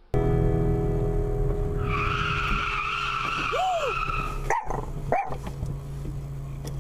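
Car engine and road noise, with tyres screeching under hard braking for about two seconds, starting about two seconds in.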